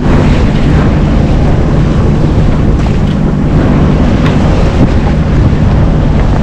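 Wind buffeting the microphone aboard a small sailing yacht under way, over a steady low hum that fits the yacht's engine running as it motors along.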